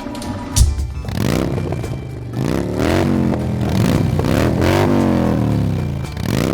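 Cartoon engine-revving sound effect, its pitch rising and falling several times, over background music, with a sharp thump about half a second in.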